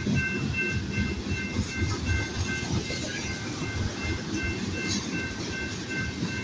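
Manifest freight train's cars rolling past a grade crossing, wheels rumbling and clacking on the rails. Over it the crossing signal's bell rings steadily, about two to three strokes a second.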